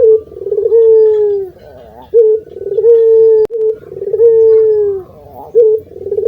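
Barbary dove (puter) cooing repeatedly: each phrase is a short note followed by a long, drawn-out coo that drops in pitch at its end, repeating about every one and a half to two seconds.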